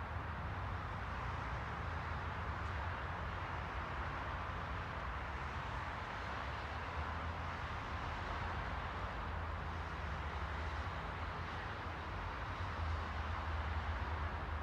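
Steady rushing noise with a constant low rumble underneath, unchanging throughout.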